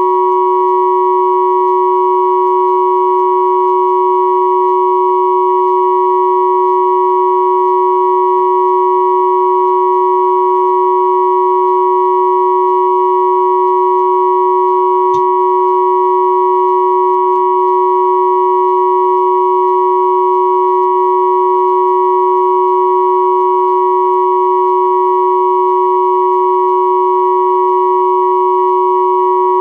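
Three pure sine tones at 369, 963 and 1111 Hz sounding together as one steady, unchanging chord.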